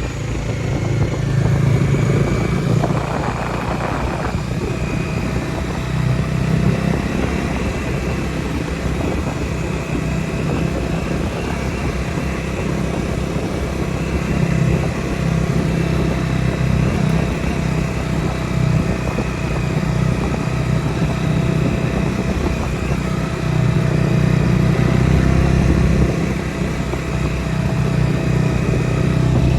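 Bajaj Dominar 250 single-cylinder motorcycle engine running under way, its note swelling and easing with the throttle. There is a short rush of noise about three seconds in.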